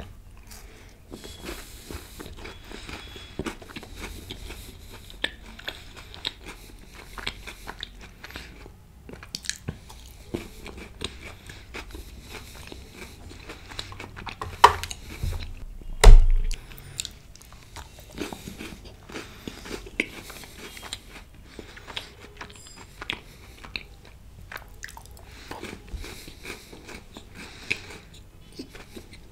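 Close-miked biting and chewing of Dairy Milk Silk Oreo Red Velvet chocolate, with many small crunches and mouth clicks. Two louder knocks come about halfway through, the second the loudest.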